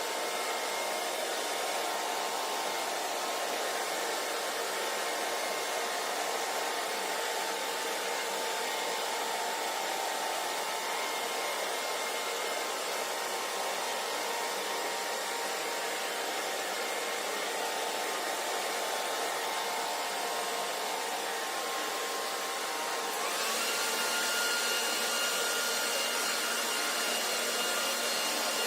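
Hair dryer running steadily, a blowing rush with a faint motor whine. A little past three-quarters of the way through, the whine steps up in pitch and the sound grows slightly louder.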